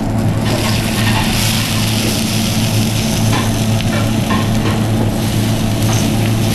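Spring onions sizzling on a hot stainless steel flat-top griddle, a steady frying hiss over the constant low hum of kitchen extraction, with a few light clicks as they are laid down.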